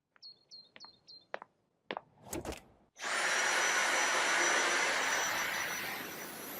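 Dyson V8 Absolute cordless stick vacuum: a few short high chirps and clicks, then the motor starts about three seconds in and runs steadily with a high whine.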